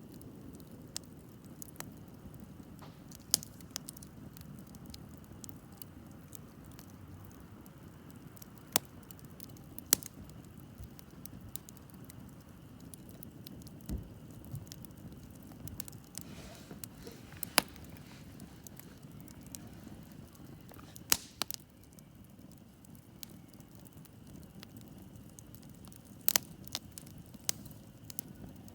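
Wood campfire crackling, with sharp pops at irregular intervals, a few much louder than the rest, over the low steady hiss of the flames.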